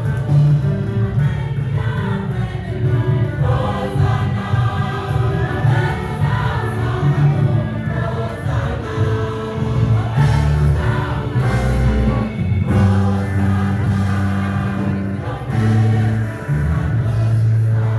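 A choir singing gospel music with instrumental backing and a strong bass line.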